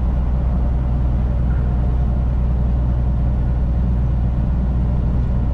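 Semi-truck's diesel engine and road noise heard from inside the cab while cruising on the highway: a steady low drone that does not change.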